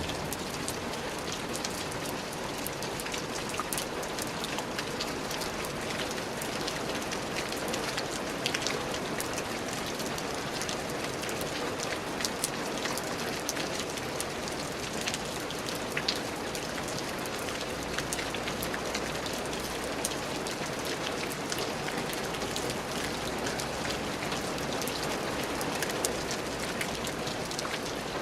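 Steady rain falling, an even hiss with many sharp drips and drop impacts scattered through it.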